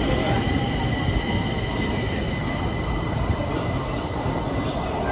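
Stockholm Metro train running on the rails: a steady rumble with several high-pitched tones held over it.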